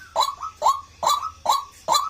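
White-breasted waterhen (ruak-ruak) calling: a harsh, repeated note about twice a second, five calls in a row, each dropping in pitch.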